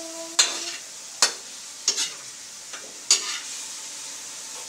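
Chicken pieces sizzling in a hot wok as they brown, with a spatula stirring and scraping against the wok about once a second, five strokes in all.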